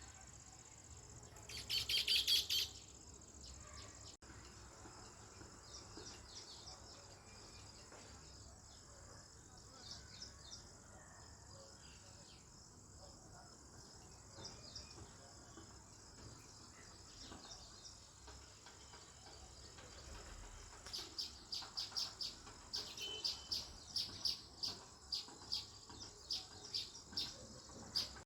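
House sparrows chirping: a loud cluster of chirps about two seconds in, scattered faint chirps, then a quick run of loud chirps, about two a second, in the last seven seconds. A steady high-pitched tone runs underneath throughout.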